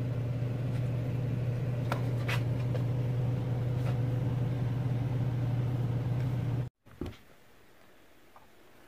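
Steady low mechanical hum of a motor or appliance, with a few faint clicks. It cuts off abruptly about two-thirds of the way through, leaving only faint room tone.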